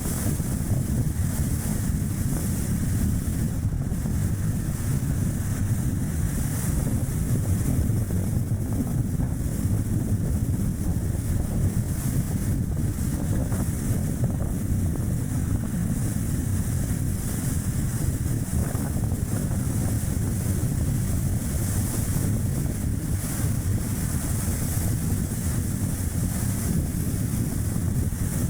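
Strong wind buffeting the microphone over steady tyre and road noise from a Chevrolet Spark light car driving, a constant low rumble with a hiss above it.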